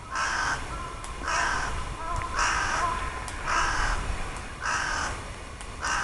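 A bird calling over and over: six harsh calls, each about half a second long, about one a second.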